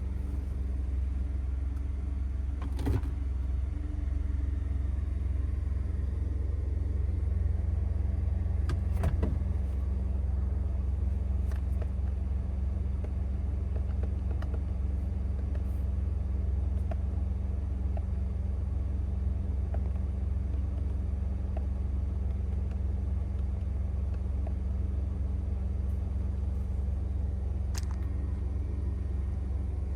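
Pickup truck's 2.7L V6 EcoBoost engine idling steadily, a low, even hum, with a few brief clicks.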